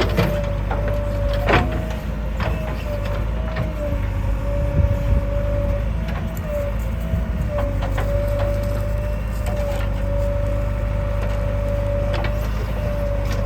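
Diesel engine of a JCB 3DX backhoe loader running steadily while it works, with a constant whine over it and scattered knocks and clanks.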